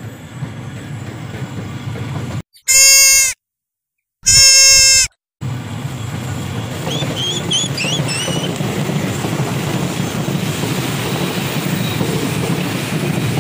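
Electric commuter train sounding two loud horn blasts, the second a little longer, then running past with a steady rumble of wheels on the rails that builds and holds.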